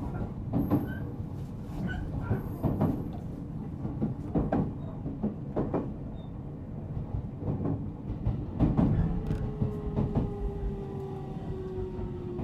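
Interior running sound of a JR Central 313 series 0 electric motor car: a steady rumble with wheels knocking over rail joints at irregular intervals. About three-quarters of the way in, a faint traction-motor whine comes in and slowly falls in pitch.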